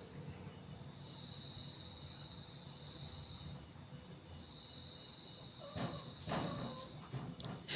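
Crickets chirping steadily in a high, pulsing trill. About six seconds in, a louder run of sharp knocks and clatter starts over it.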